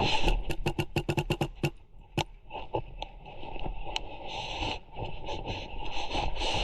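Airsoft gunfire: a quick string of about ten sharp shots, roughly six or seven a second, and one more shot a little later. After that comes a few seconds of scratchy rustling movement.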